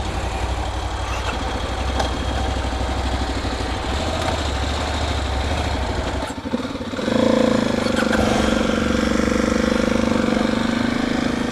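Kawasaki KLX250 single-cylinder four-stroke engine running while the motorcycle is ridden along a road. About seven seconds in the engine note gets louder and holds a steadier pitch.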